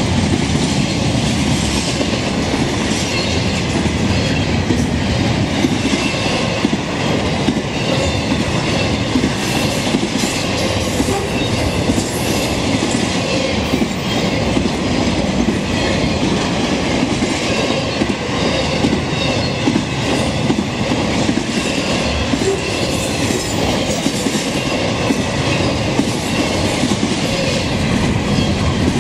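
Intermodal freight train of double-stacked containers and trailers on well cars rolling past close by: a loud, steady rolling noise of the wheels on the rails, with now and then a faint high squeal.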